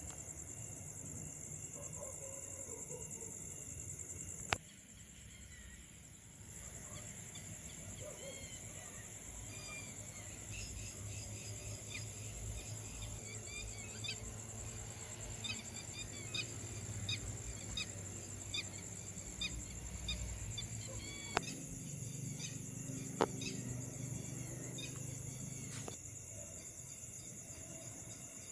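A steady, high-pitched night insect chorus of crickets, with a bird giving a series of short chirping calls through the middle. There are a few sharp clicks, one near the start and two toward the end.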